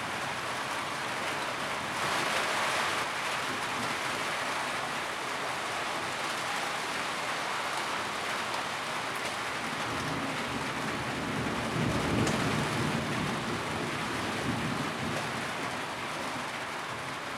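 Steady rain falling on a tin roof, heavier for a moment about two seconds in. A low rumble swells and fades around the middle.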